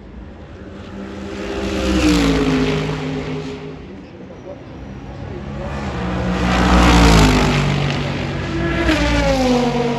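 Race cars passing one after another, each engine note dropping in pitch as it goes by: one about two seconds in, a louder one around seven seconds, and another near the end.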